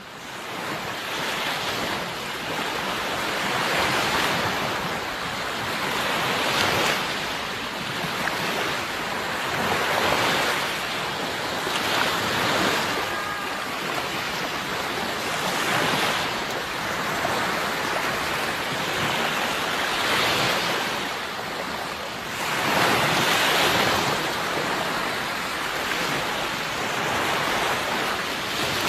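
Sea waves breaking on a shore, one surge after another, each swelling and washing back every three or four seconds.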